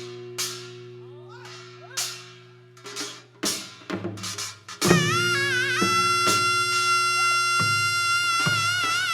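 Korean traditional music for the Jindo drum dance. Sparse drum strikes sound over a low sustained drone, and about five seconds in a high wind instrument enters on a long held note that wavers near the end.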